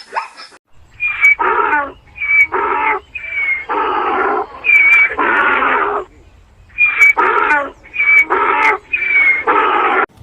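An animal calling in a long run of paired calls: each a short high squeal followed by a longer harsh rasp, with a pause about halfway.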